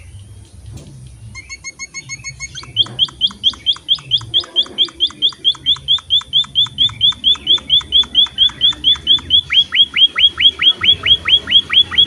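A munia (emprit) calling. A brief fast, high trill comes about a second in. From a little before three seconds it gives a long run of sharp, evenly repeated chirps, about five a second, getting louder as it goes.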